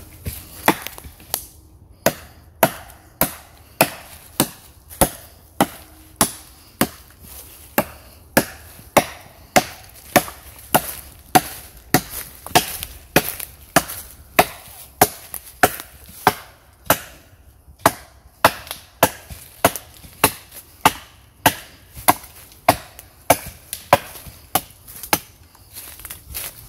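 Wood being chopped: a steady series of sharp strikes, nearly two a second, some forty in all, with a couple of brief pauses.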